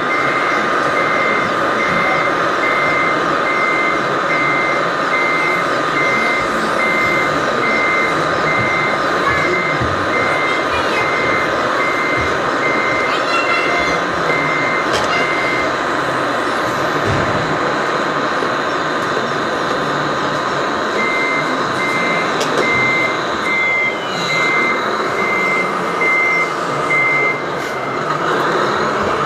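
Reversing beeper of an RC truck beeping steadily, about one and a third beeps a second, over a continuous whine. It stops about halfway through and starts again a few seconds later.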